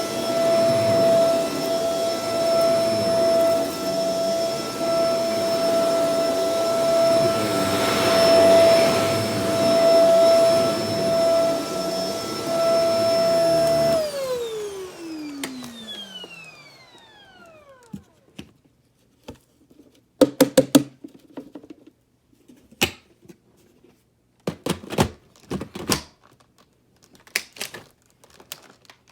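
Shark Professional Powered Lift-Away DLX (NV586) vacuum cleaner running with a steady whine. About halfway through it is switched off and the motor's whine falls in pitch as it spins down. Then come a series of short clicks and knocks.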